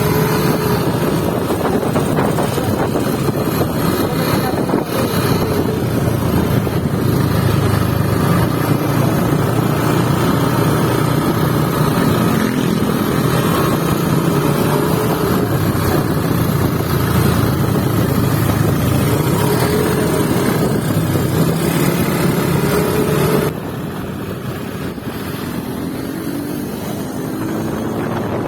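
Motorboat engine running steadily, with wind buffeting the microphone. The sound becomes suddenly quieter about 23 seconds in.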